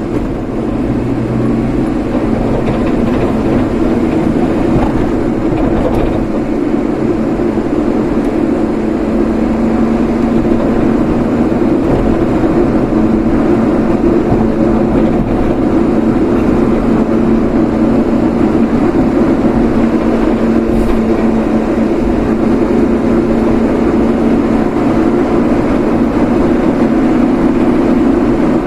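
Car driving at a steady speed: steady engine and road noise with a constant low drone.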